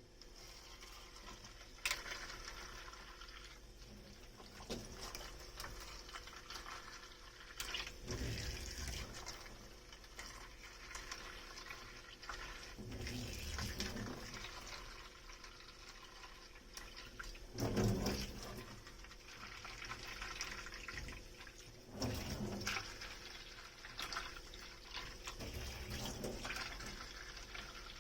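Dishes being washed in a kitchen sink under a running tap, with occasional knocks of dishes against each other or the sink. The loudest knock comes about two-thirds of the way through.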